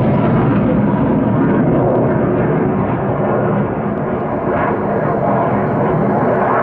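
Military fighter jet passing overhead in a turn, its engine noise a loud, continuous roar that eases slightly about halfway through.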